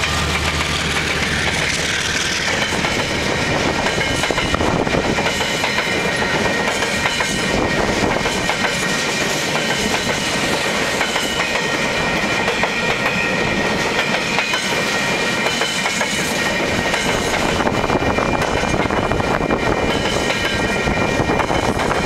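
Freight train wagons rolling past over a level crossing, wheels clattering over the rail joints. The diesel locomotive's low engine hum fades in the first couple of seconds. Thin steady high-pitched tones sit above the wheel noise.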